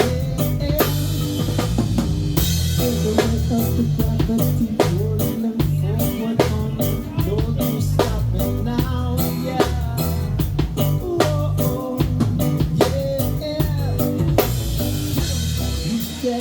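Live band playing an instrumental passage: drum kit with snare and rimshot hits keeping a steady beat, over bass guitar and electric guitar, with cymbal crashes near the start and again near the end.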